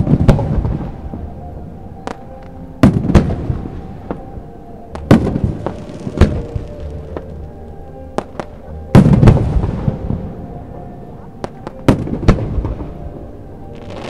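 Aerial firework shells bursting in a series of sharp booms, one every one to three seconds, some in quick pairs and some trailing off in crackle.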